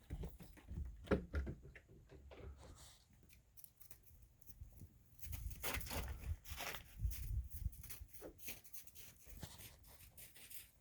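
Wind buffeting the microphone in uneven gusts, a low rumbling with crackling and rustling over it, strongest around one second in and again from about five to eight seconds in.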